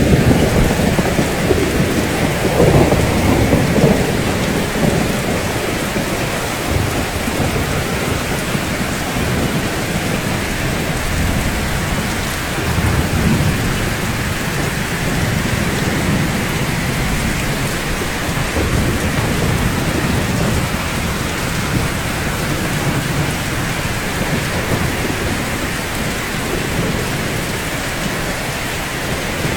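Steady rain falling, with low rumbles of thunder that are strongest in the first few seconds.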